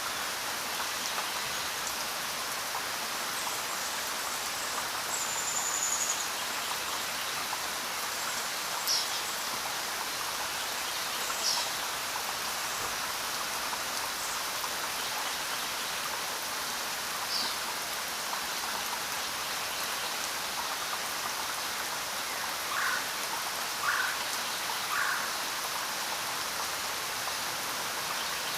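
Steady rain falling in a dense, even hiss. A few short high bird chirps sound through it, and three quick lower calls come close together near the end.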